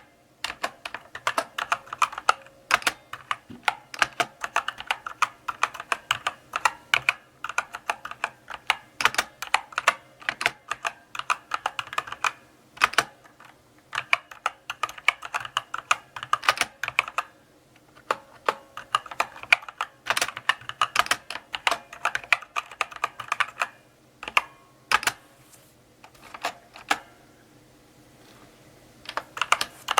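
Mechanical keyboard being typed on slowly: runs of key clicks and clacks broken by short pauses, with a longer lull of only a few scattered keystrokes near the end.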